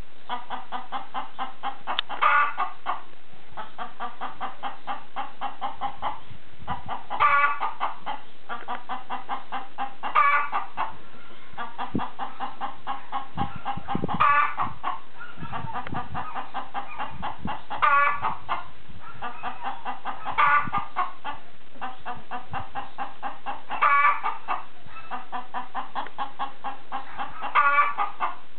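Chicken clucking in a steady rapid run of short clucks, broken about every three to four seconds by a louder, higher call.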